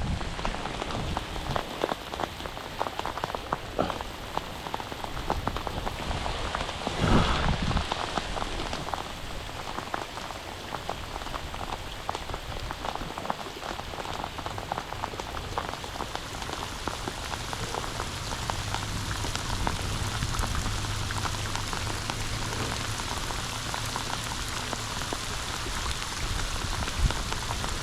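Steady rain, a dense patter of drops striking close around the microphone, with a brief louder gust or knock about seven seconds in.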